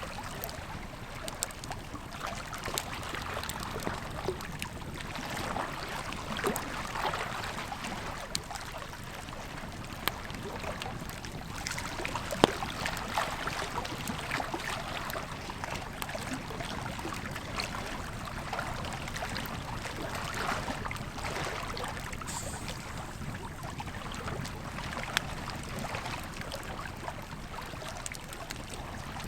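Wood campfire crackling and popping, with one sharp pop standing out about halfway through, over the steady rush of a flowing river.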